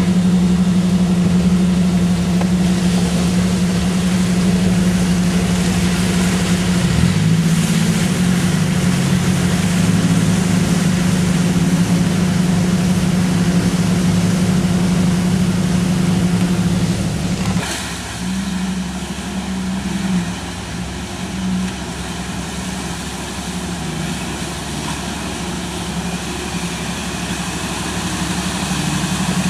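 Off-road 4x4 engine running steadily at a strong, even note. About two-thirds of the way in it drops off suddenly, wavers briefly, then settles into a quieter, steady run like an idle.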